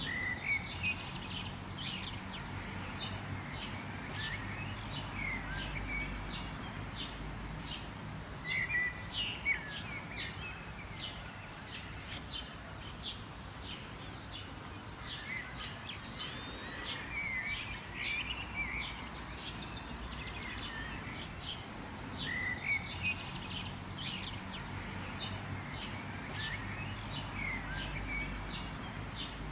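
Songbirds chirping and calling continuously, many short quick notes and trills overlapping, over a low steady background rumble.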